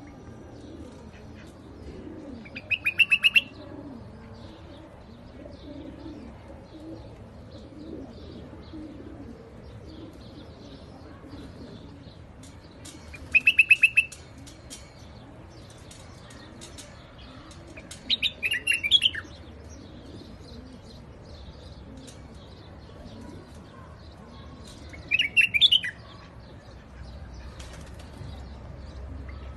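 White-eared bulbul calling: four short loud phrases several seconds apart. The first two are quick rattling trills; the last two are warbling notes that swoop up and down.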